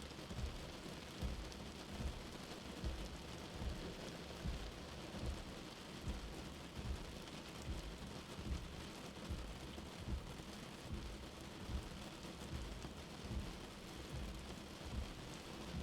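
Steady rain with a slow, soft heartbeat thumping under it, about one beat every 0.8 seconds.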